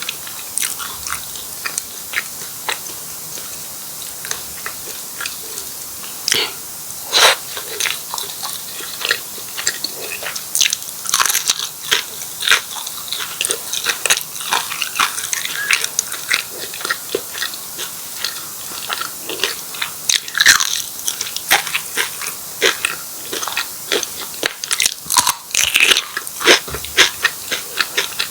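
Close-miked biting and chewing of martabak telur, a fried pastry filled with egg, corned beef and mozzarella: irregular crisp crunches and chewing clicks, some much louder than others.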